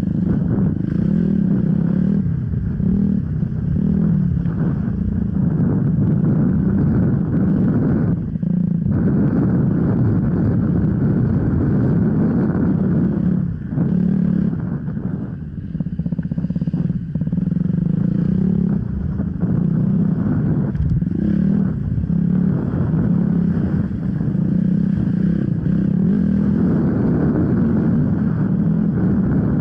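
Off-road enduro motorcycle engine running hard under constantly changing throttle, with short dips as the throttle is eased, about a third of the way in and again around the middle.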